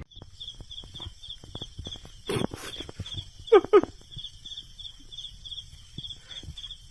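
Two short yelping animal calls, one right after the other, about three and a half seconds in, over a steady high chirping that pulses about four times a second.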